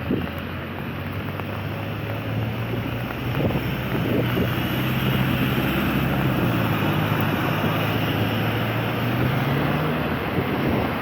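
A motor vehicle driving by on a wet street: tyre hiss and a low engine hum, louder from about four seconds in, with the engine note rising a little near the end.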